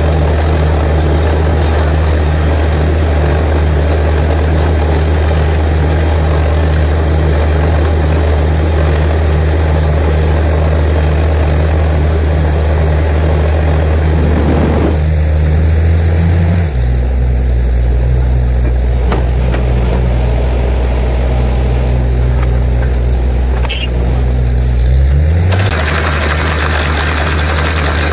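Borewell drilling rig's heavy diesel engine running under load with a loud, even hiss of drilling over it. About halfway through the hiss stops and the engine drops to a lower, slower note; near the end the engine speeds back up and the hiss returns.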